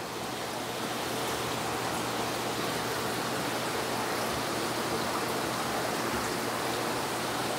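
Steady rush of moving water from a saltwater aquarium's circulation and filtration, with a faint low hum underneath.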